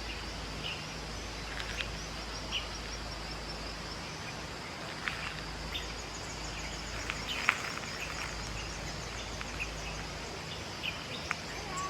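Morning countryside ambience: a steady high insect drone, with a brief rhythmic insect pulsing in the middle and scattered short bird chirps.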